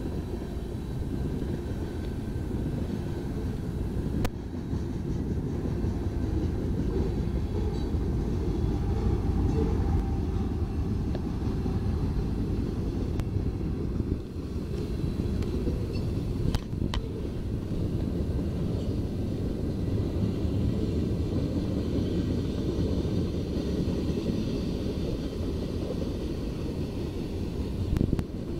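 Freight train rolling past: a steady low rumble of steel wheels on rail and cars going by. A Canadian Pacific diesel locomotive working in the middle of the train passes partway through, and a couple of sharp clicks stand out.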